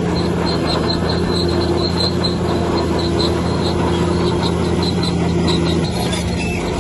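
Bulldozer's heavy diesel engine running steadily, with a rhythmic high metallic squeak about three to four times a second, typical of crawler tracks moving. The engine note drops near the end.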